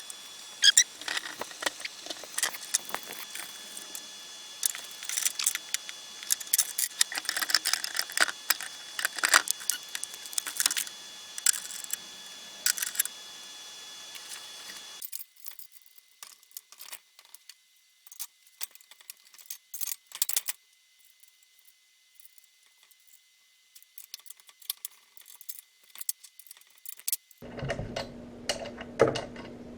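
Clinks, clicks and rattles of chainsaw parts being handled and set down: dense for about the first half, sparse after that. A low steady hum joins in near the end.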